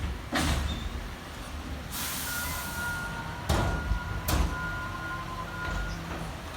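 Side-loader garbage truck working: diesel engine running, with a steady high whine from its hydraulics starting about two seconds in and several short hisses of air or hydraulic release.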